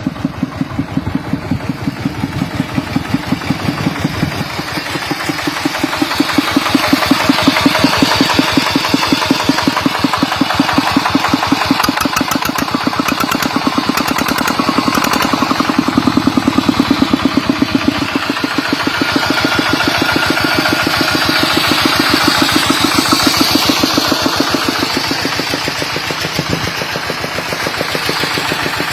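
Kubota ET95 single-cylinder diesel engine on a walking tractor, running steadily with a rapid, even beat of firing pulses.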